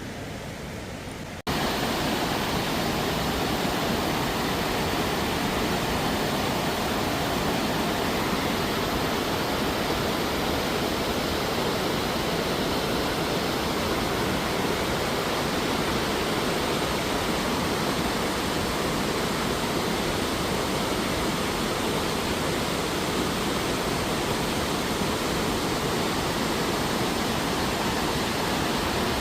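Steady rushing of a waterfall, starting abruptly about a second and a half in.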